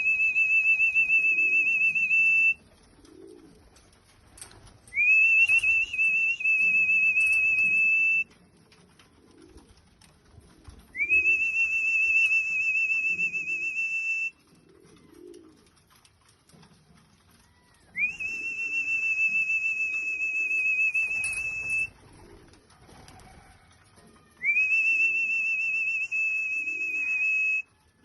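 A trilling whistle blown in long blasts, each sweeping up at the start and then held steady with a warble for three to four seconds, repeated about every six to seven seconds: the first ends a couple of seconds in, followed by four more. Pigeons coo softly between the blasts.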